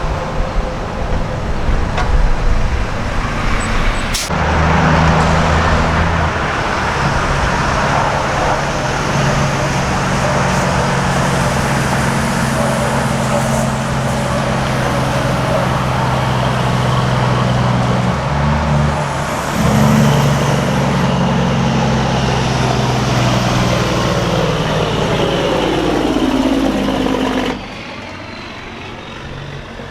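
Diesel semi-truck engine running as the truck moves off, with a sharp click about four seconds in. The engine note breaks briefly, like a gear change, about two-thirds of the way through, and its pitch falls near the end.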